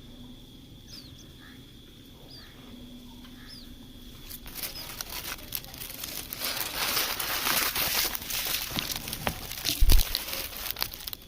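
A few faint, short rising chirps in the first few seconds. Then from about halfway in comes dense rustling and crackling, like vegetation or material being handled or pushed through, with a sharp thump near the end.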